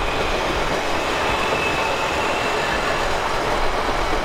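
Electric multiple-unit passenger train passing close by: a steady, loud rush of wheels on the rails. A faint high squeal rises above it in the middle.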